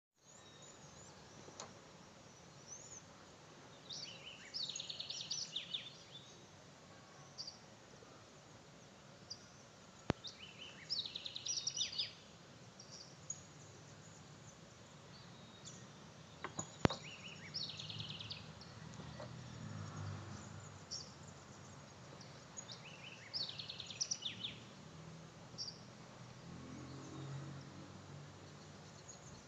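A songbird singing: a phrase of rapid high notes about two seconds long, repeated roughly every six seconds over faint outdoor background noise, with a few sharp clicks between phrases.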